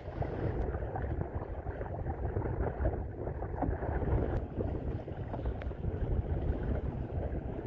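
Wind rumbling and buffeting on the microphone aboard a sailing canoe underway in a gusty breeze, uneven in strength, with a few faint clicks.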